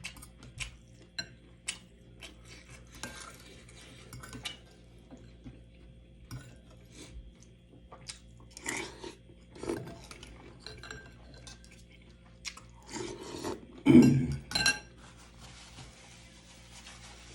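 Cutlery clinking and scraping against a bowl or plate during a meal of noodles and chicken: scattered light clicks, with a louder cluster of knocks about fourteen seconds in.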